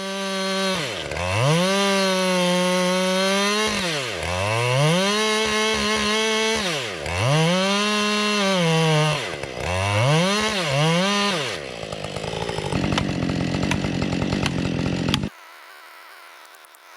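Husqvarna 390 XP chainsaw engine revved up and down about five times, each time dropping when the throttle is let off and rising back to a high steady scream. It then runs at a lower, rougher pitch for about three seconds before cutting off suddenly.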